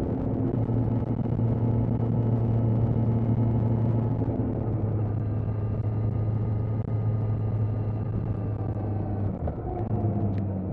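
Kawasaki Z900's inline-four engine running at a steady pitch under way, with a brief dip in the note about nine and a half seconds in.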